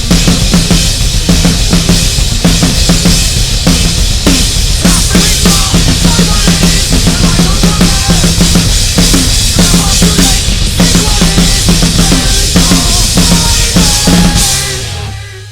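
Drum kit played hard along with a metal song: steady bass drum and snare hits with cymbals over the band's guitars. Near the end the song stops and the sound dies away.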